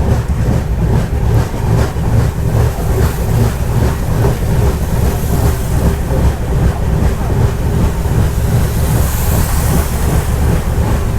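Mandovi Express passenger train running at speed, a loud, steady low rumble from the moving coach.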